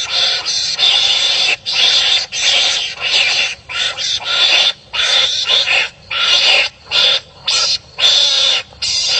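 Wild animals barking harshly at each other, as when fighting, in a rapid run of raspy, noisy calls about one and a half a second with short breaks between them.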